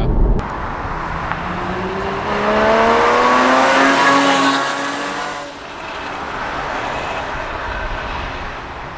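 Porsche Cayman's naturally aspirated flat-six accelerating past, its note climbing in pitch over a few seconds. It is loudest about halfway through, then drops away, leaving tyre and road noise.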